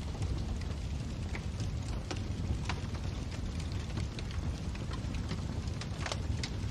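Wood fire in a fireplace crackling, with irregular sharp pops over a steady low rumble of the flames; a few louder pops come about six seconds in.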